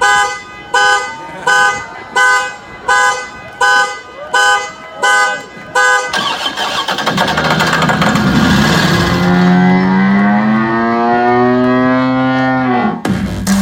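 Rocket-launch sound effects: a run of about nine short horn-like beeps, evenly spaced under a second apart, then a long tone rising slowly in pitch over a rushing noise for about seven seconds, which cuts off suddenly near the end.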